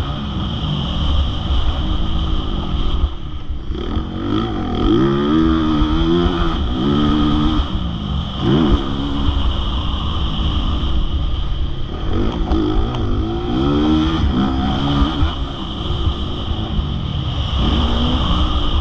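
Motocross bike engine at speed, its pitch rising and falling over and over as the throttle is opened and shut, with a constant low rumble underneath.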